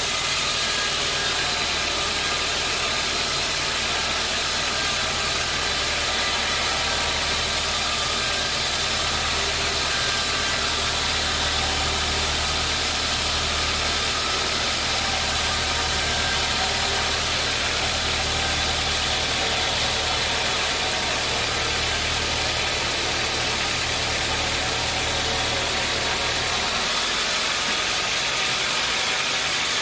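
Sawmill machinery running steadily, a constant mechanical din with a low engine-like hum underneath that stops near the end.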